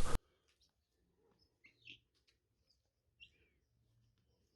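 Very faint, scattered bird chirps, a few short high notes.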